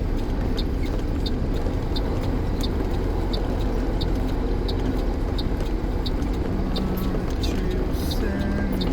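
Truck's diesel engine running with a steady low rumble, while the turn signal ticks evenly about three times every two seconds as the truck pulls over to park.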